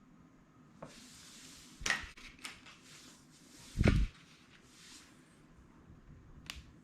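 Handling noise: a few light knocks and clicks, with one louder dull thump about four seconds in.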